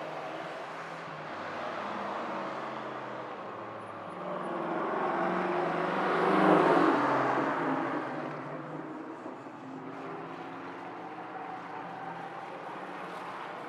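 A vintage straight-eight car's engine driving past, growing louder to a peak about six and a half seconds in, then fading away.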